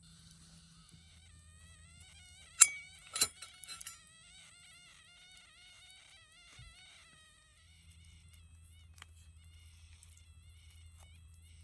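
Two sharp clinks about half a second apart, followed by a few lighter ticks. Under them runs a faint, repeated warbling animal call and a low steady hum.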